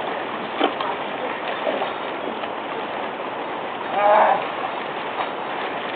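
Steady splashing and sloshing of ploughing through a wet, muddy field, with scattered small knocks. A brief voice-like call comes about four seconds in.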